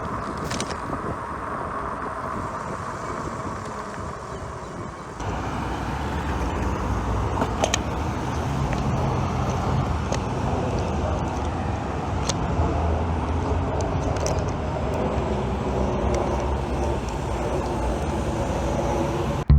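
Road traffic and wind noise heard from a moving e-bike, with cars passing and scattered small clicks. A deeper, louder rumble sets in about five seconds in.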